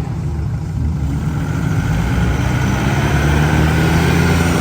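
Car engine pulling hard under acceleration, its pitch rising slowly and getting louder.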